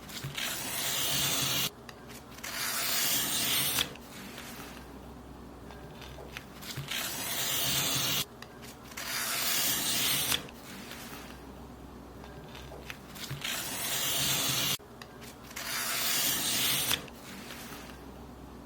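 Paper being cut in long, rasping strokes, about six of them, each lasting a second or two and mostly coming in pairs with short pauses between.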